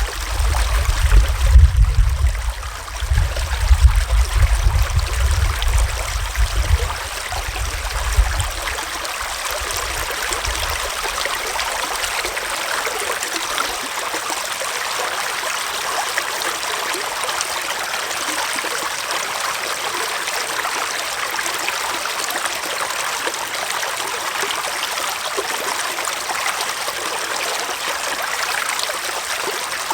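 Small forest stream flowing and trickling steadily. For roughly the first ten seconds an uneven low rumble comes and goes under the water sound, then stops.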